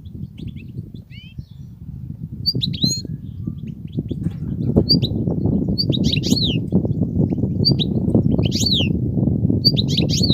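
European goldfinch singing: quick phrases of sharp, high, sweeping chirps and twitters, repeated every second or so. Underneath runs a loud low rushing noise that grows louder about four seconds in.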